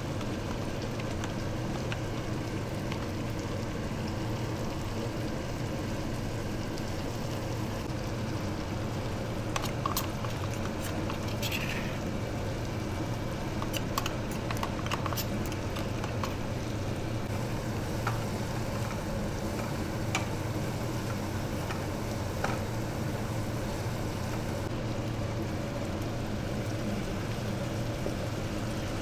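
Chicken liver and gizzard cooking in a pan, a steady sizzling, bubbling hiss. A few light clicks come through the middle.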